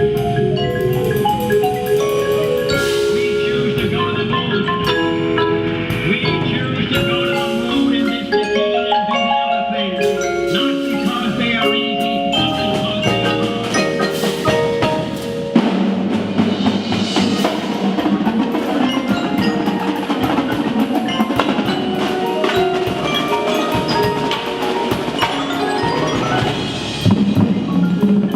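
Indoor percussion ensemble playing: mallet keyboards such as marimba and glockenspiel carry quick melodic lines over drums. About halfway through, a sharp hit marks a change, and the texture becomes denser and fuller.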